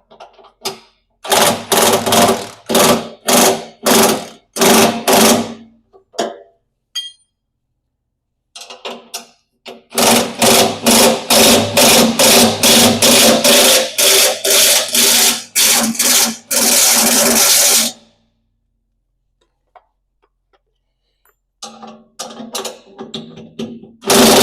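Impact wrench tightening the tooth bar's mounting bolts, run in short trigger bursts about two a second, then a quicker string of bursts and a steady run of about a second and a half. After a pause of about three seconds, another steady run starts near the end.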